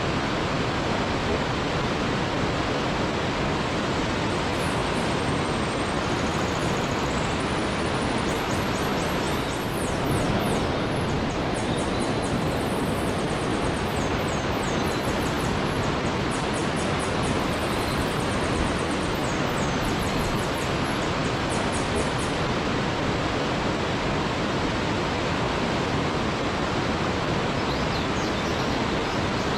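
Waterfall, a steady rush of falling water. Through the middle, high, quick chirps repeat over it, typical of a small songbird.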